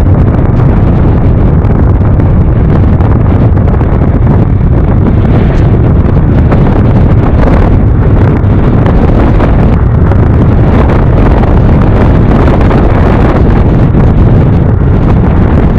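Loud, steady wind rush on the microphone of a rider on a moving Yamaha NMAX Turbo scooter, over a steady low rumble.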